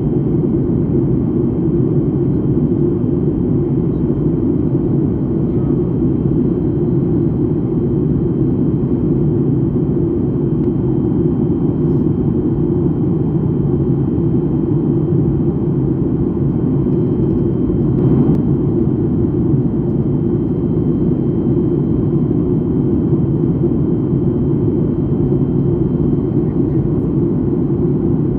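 Jet airliner cabin noise in flight: a steady, even engine and airflow rumble with no change.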